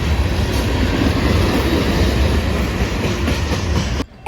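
Train rolling past at close range: a steady, loud rumble with wheel-on-rail noise, stopping abruptly about four seconds in.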